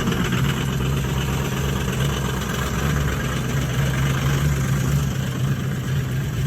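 Ford 6.0-litre diesel V8 idling steadily just after a cold start at about minus 20, not plugged in, with the glow plugs cycled several times before it caught.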